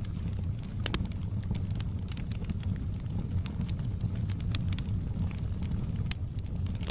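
Wood fire crackling: a steady low rumble of flames with frequent irregular sharp pops and crackles.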